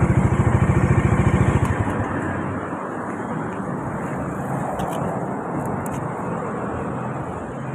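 Bajaj Dominar 400's single-cylinder engine running close by with an even, rapid thumping beat, which falls away about two seconds in, leaving a steady rushing noise.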